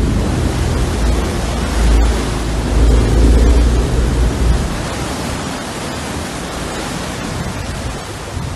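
Wind blowing on the microphone: a steady rush of noise with a heavy low rumble that eases about halfway through.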